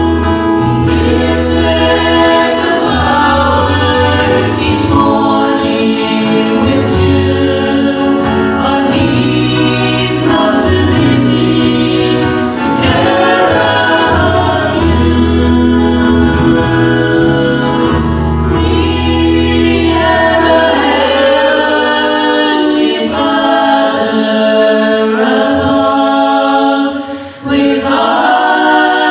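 Choir singing a gospel hymn over a low instrumental accompaniment. The accompaniment drops away about two-thirds through, leaving the voices unaccompanied, with a brief break near the end.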